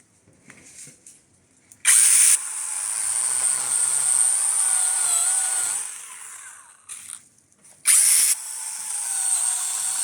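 Small brushless battery chainsaw run in two bursts about six seconds apart, each starting with a sharp loud onset and settling into a high whine while it cuts wood, its pitch sagging and wavering under load.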